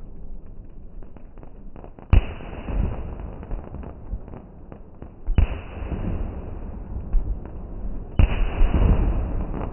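Aerial fireworks going off: three loud bangs about three seconds apart, each followed by a long rumbling, crackling tail, with scattered small pops before the first.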